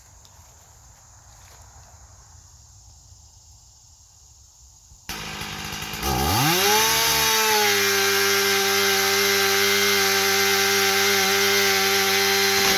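Chainsaw comes in suddenly about five seconds in, revs up quickly about a second later and then runs loud and steady at full throttle.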